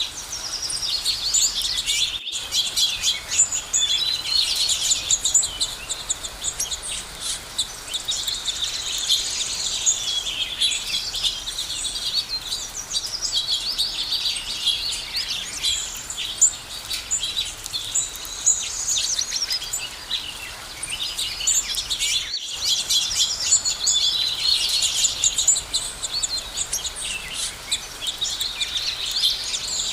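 A chorus of several birds chirping and singing at once, a dense run of high, quick chirps and trills that never lets up. The sound cuts out for an instant twice, once about two seconds in and again about two-thirds of the way through.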